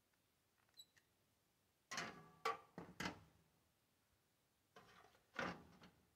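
A few sharp knocks and clacks from hands working tools or materials, in two short clusters: four about two seconds in and a couple more near the end.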